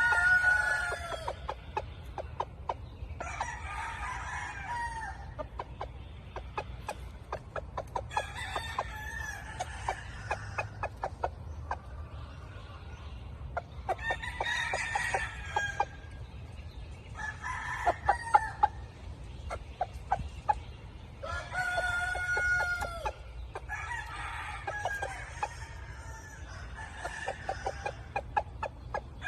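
Several roosters crowing in turn, about eight long crows a few seconds apart, with runs of short clicks between them. The birds are black gamefowl roosters.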